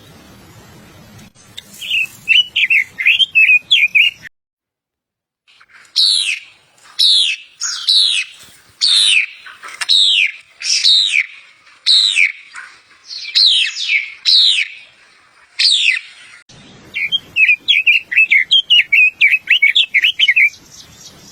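Songbirds singing in separate passages. First comes a quick run of chirps. Then a series of loud whistled notes, about one a second, each falling in pitch. Near the end, another fast chattering run of chirps.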